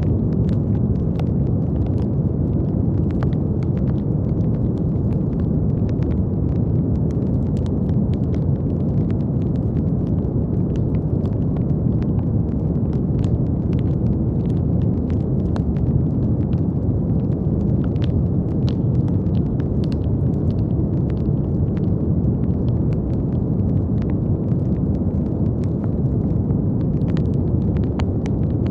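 Brown noise: a steady, deep rushing hiss weighted towards the low end, with faint scattered crackling clicks throughout.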